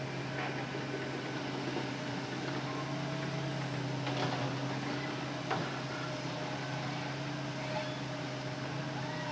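Hitachi Zaxis excavator engine running with a steady low hum, with two short sharp knocks about four and five and a half seconds in.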